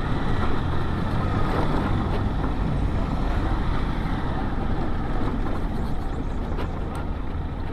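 2004 Yamaha XT 600E's air-cooled single-cylinder four-stroke engine running steadily as the motorcycle is ridden, with road noise from the onboard microphone.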